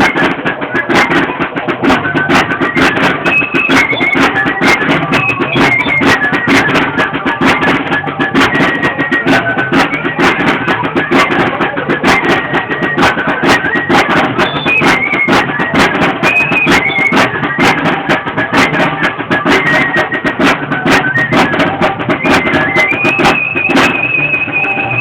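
Flute and drum playing traditional torito dance music: a high flute melody moving in short steps over fast, steady drum beats. The flute holds one long wavering note near the end.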